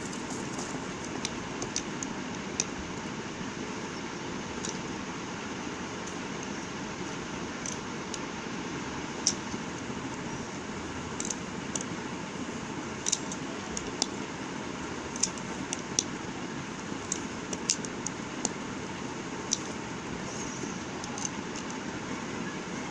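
Irregular sharp clicks and taps from bars of soap being handled and cut, over a steady background hiss.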